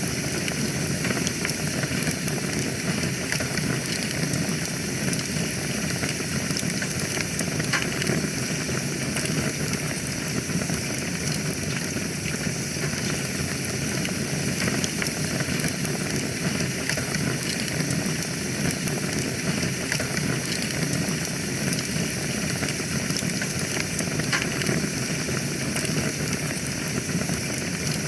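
Wood fire burning in a fireplace: a steady hiss with frequent small crackles and pops scattered throughout.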